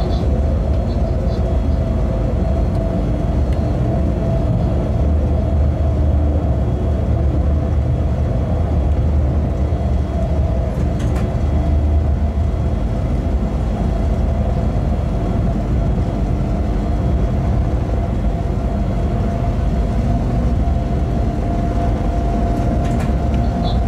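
Cab noise of an electric freight locomotive running at steady speed: a continuous low rumble from wheels and track, with a steady hum over it.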